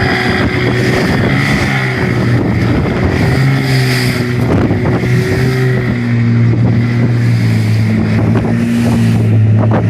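A motor boat's engine running steadily, with strong wind on the microphone and water noise over it, and a few knocks or splashes.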